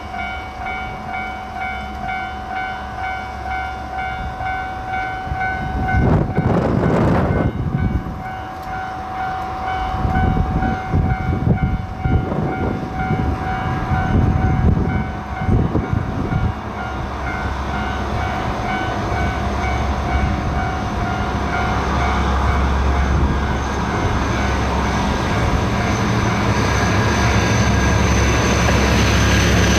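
Diesel train at a station, its engine running with a steady background of pulsing tones. A short loud blast comes about six seconds in, and the engine noise swells steadily through the second half as the train works up power.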